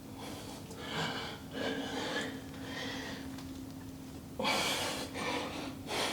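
A man breathing hard after a set of bodyweight calf raises, with a series of heavy exhales and gasps. The strongest is a forceful blow-out about four and a half seconds in. A steady low hum runs underneath.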